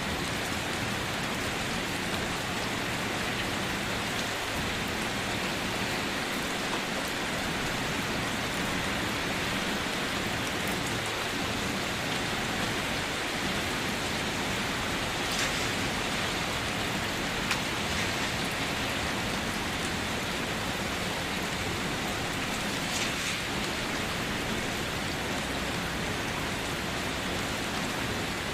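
Steady rain falling, an even hiss, with a few sharper drops landing now and then.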